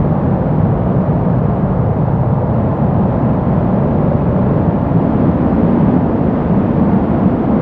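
Brown noise: a steady, deep rushing hiss with its weight in the low end and little treble, unchanging throughout.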